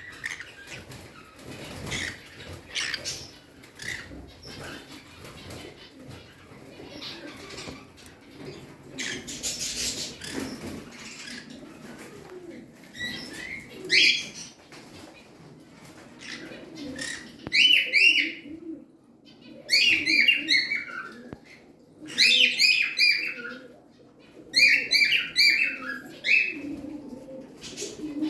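Pet parrots calling in repeated bouts of quick, high chirping chatter through the second half. Earlier there is scattered rustling and a burst of wing flapping about nine seconds in.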